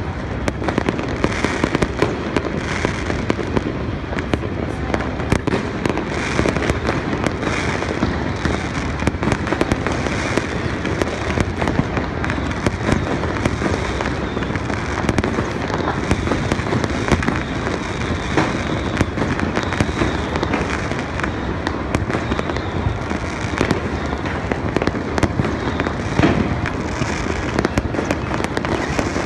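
Many firecrackers and fireworks going off at once: a dense, unbroken crackle and popping, with louder bangs standing out here and there.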